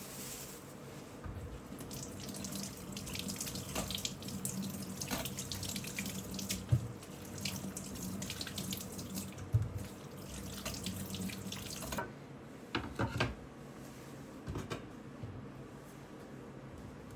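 Water running from a tap into a sink, with scattered clinks and knocks of things being handled under the stream. The flow stops about twelve seconds in, followed by a few clatters.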